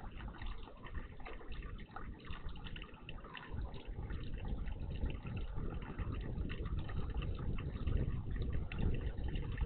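Water splashing and trickling in a garden bird bath, a continuous uneven patter of small splashes.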